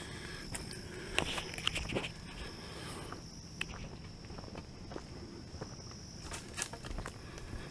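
Footsteps on a woodland hiking trail, irregular crunching steps, over a steady high insect hum.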